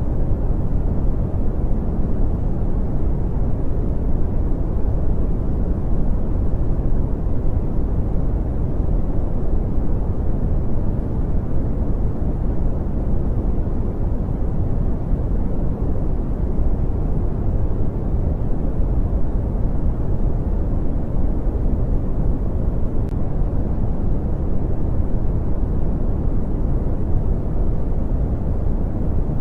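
Brown noise: a steady, deep hiss, heavy in the bass and dull, with little treble.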